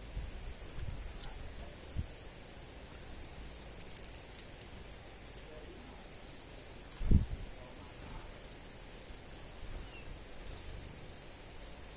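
Small birds giving thin, very high, brief chirps scattered throughout, with a sharper burst about a second in and a low thump about seven seconds in.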